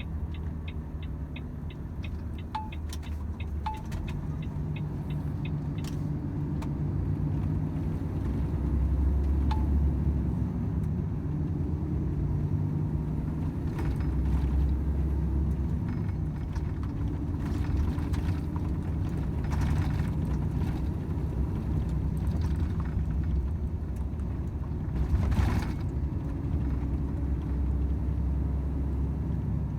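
Volvo FH 500 truck's 13-litre six-cylinder diesel heard from inside the cab while driving: a steady low drone whose pitch shifts as the load changes. There is a run of quick, even ticks over the first few seconds, and a few dull knocks, the loudest about four seconds before the end.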